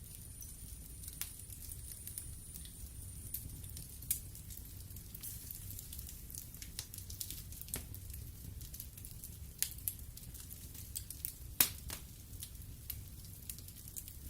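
Wood fire burning in a fireplace: irregular sharp crackles and pops over a low steady rumble of the flames, with one louder pop near the end.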